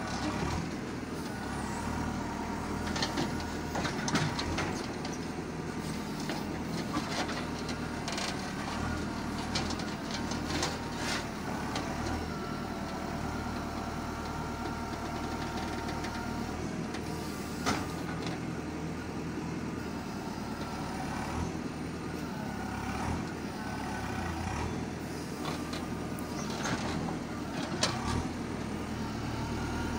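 JCB 3CX backhoe loader's diesel engine running steadily while the machine works, with sharp knocks and clanks scattered through, the loudest a few seconds in and near the end.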